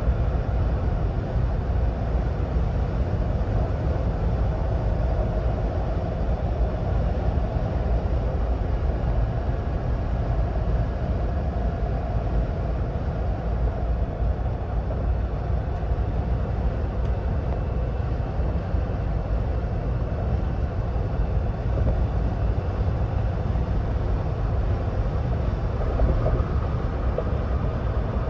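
2026 Ford Bronco Badlands cruising at highway speed: a steady low rumble of tyre, engine and wind noise with no changes.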